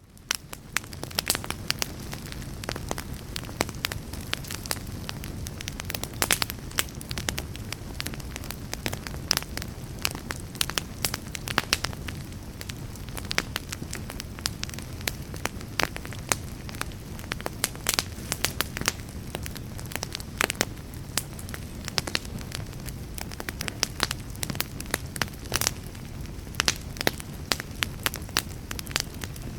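Fire in a fireplace crackling, a steady low rumble of flames under frequent sharp pops and snaps. It fades in from near silence over the first second.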